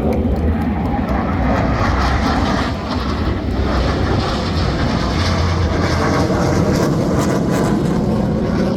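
Jet engine noise from the Black Eagles' T-50B jets flying their display. It is loud and steady throughout, with a low rumble and a hiss that grows stronger a couple of seconds in.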